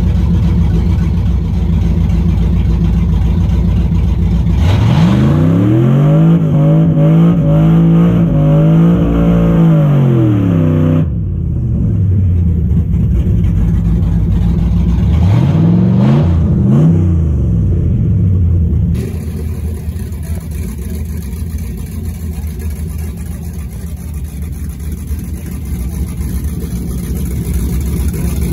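Drag-race engine idling, then revved up at about five seconds and held at high revs for several seconds before dropping back. Two quick rev blips follow, then the sound changes abruptly to a quieter, steady engine rumble.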